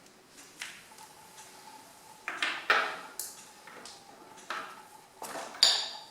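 Metal clinks and scrapes of a 19 mm spanner being fitted to and worked on the steel sump plug of a Kubota B7001 diesel tractor's oil pan. There are several sharp knocks, the loudest about two and a half seconds in and near the end, the last with a brief metallic ring.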